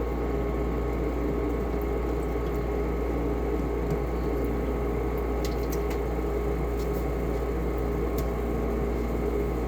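Steady mechanical hum and whir of a running fan or appliance, with a few faint clicks in the second half.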